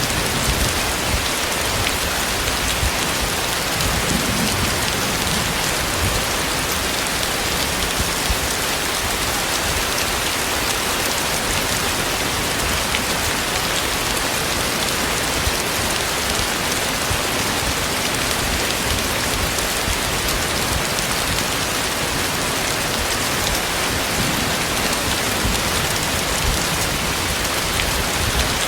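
Heavy rain falling steadily, with scattered sharper hits of single drops.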